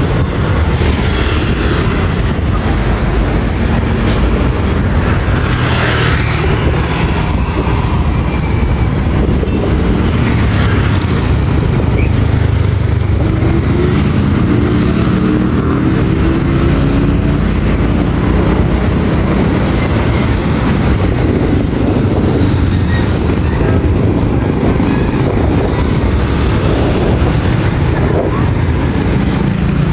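Vehicle on the move: loud, steady low engine and road noise, with the engine's tone shifting in pitch around the middle.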